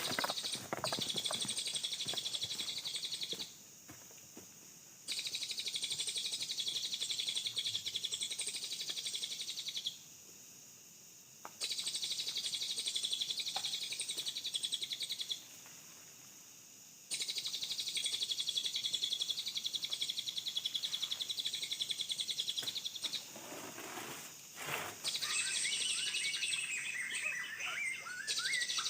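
Bird song in the forest: a high, very rapid trill repeated in bouts of a few seconds with short breaks, then a different, lower call that steps down in pitch near the end.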